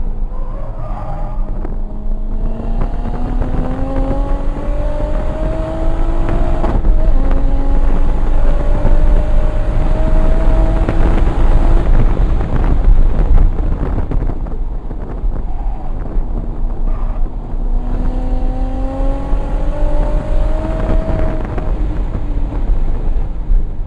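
Single-turbo 1994 Toyota Supra's 2JZ inline-six pulling hard on track, its pitch climbing through one gear, dropping at an upshift about seven seconds in and climbing again. The engine eases off around halfway, then pulls hard once more, all over a heavy low rumble of wind and road noise.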